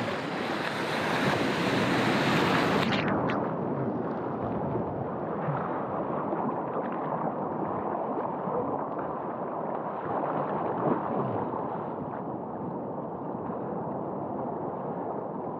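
Small ocean surf and water rushing and splashing around a waveski paddled out through the waves, with some wind on the microphone. About three seconds in, the sound suddenly turns muffled and stays dull.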